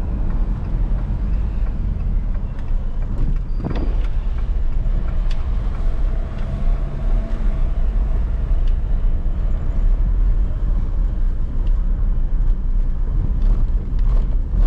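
Jeep Renegade diesel driving, heard from inside the cabin: a steady low engine and road rumble, with a brief knock about four seconds in.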